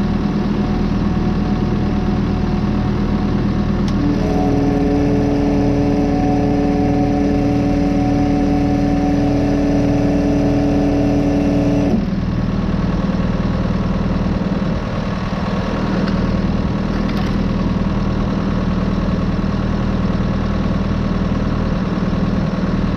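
Vehicle engine running steadily. From about four seconds in, a steady whine of several pitches rides over it, then cuts off suddenly about twelve seconds in.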